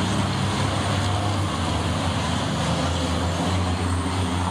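Racing trucks' diesel engines running, a steady low-pitched drone with no break.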